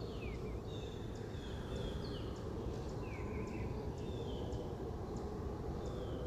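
A bird calling repeatedly with short, high notes that slide downward in pitch, about one every second or so, over a steady low outdoor rumble.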